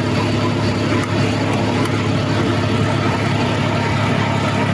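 Fire department ladder truck's diesel engine running steadily at idle, a constant low hum.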